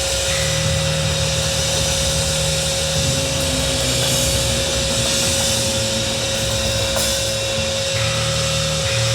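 Loud, distorted amplified guitar and bass holding low notes that change every few seconds, under a steady high ringing tone.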